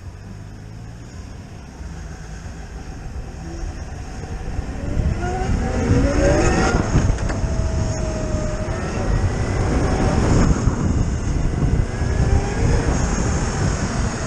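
Zero FX electric motorcycle's motor whining, rising in pitch as the bike accelerates a couple of times and dropping near the end as it slows, under a heavy rush of wind on the microphone that grows louder with speed.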